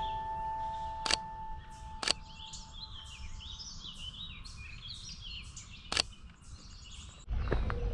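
Small birds chirping and calling rapidly in a marsh as background music fades out, with three sharp clicks spread through. Near the end a loud low rumble of wind or handling noise comes in suddenly.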